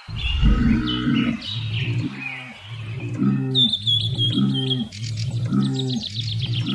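Small birds chirping, breaking into a fast high trill about halfway through, over a low pitched sound that repeats in even pulses roughly every half second.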